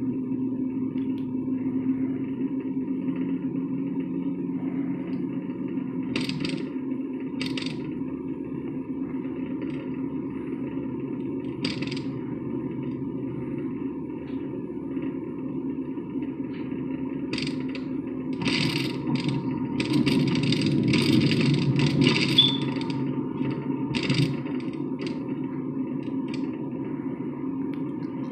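Steady road and engine rumble inside a moving truck's cab. A few short hissy rustles come at uneven times, most of them clustered past the middle.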